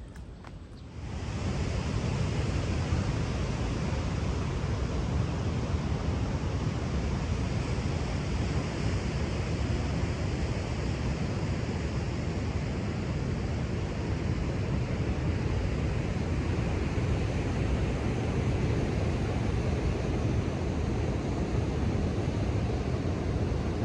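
Ocean surf rushing steadily, mixed with wind on the microphone, coming in suddenly about a second in.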